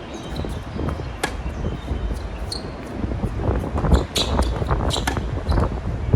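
Tennis rally: sharp pops of racket strikes and ball bounces every second or so, over a heavy rumble of strong wind on the microphone.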